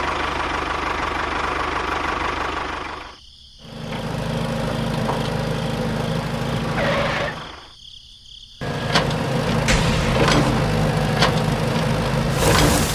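Small engine running steadily. It drops out briefly twice, then runs on louder with sharp clicks over it near the end.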